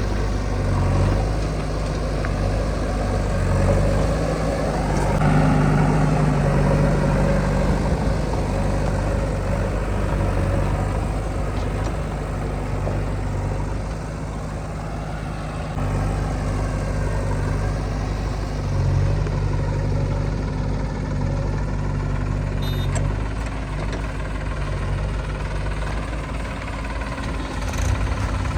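Diesel engines of a JCB 3DX backhoe loader and farm tractors running at work, a steady engine hum that revs up about five seconds in and again a little past the middle.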